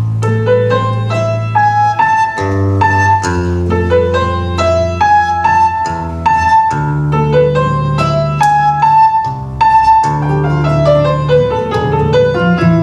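Keyboard music starts abruptly: a Baroque-style piece with a busy melody line over long held bass notes.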